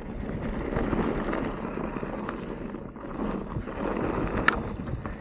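Mountain bike rolling over a rough trail: tyres rumbling on dirt with the bike rattling and clattering, and a sharp knock about four and a half seconds in.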